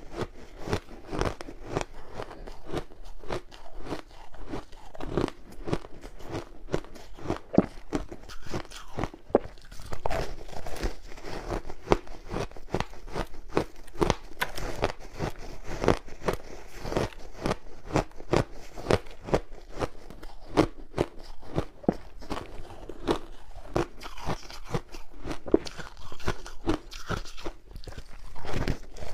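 Close-up crunching and biting of a frozen matcha ice ball: a continuous, irregular run of sharp cracks and crunches as the ice is bitten and chewed.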